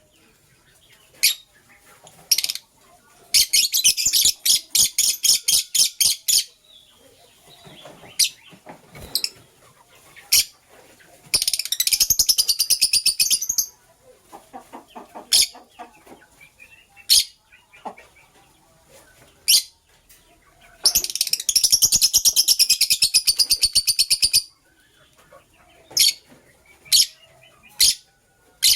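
Lovebirds chirping: sharp, high single chirps here and there, and three runs of rapid, shrill chirping a few seconds long, near the start, in the middle and after about twenty seconds. A lower-pitched rapid chatter comes about halfway through.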